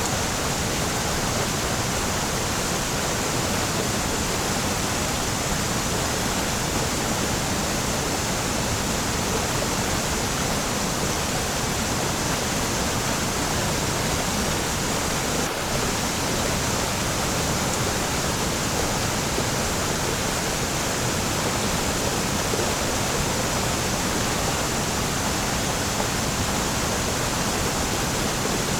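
Waterfall rushing in a steady, even roar of falling water, unchanging throughout.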